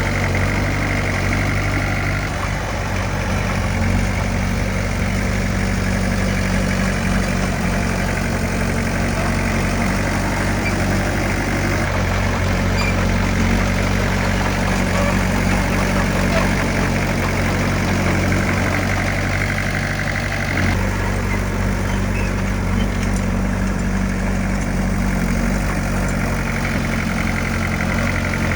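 Diesel engine of heavy earthmoving machinery running steadily. Its note shifts abruptly about twenty-one seconds in.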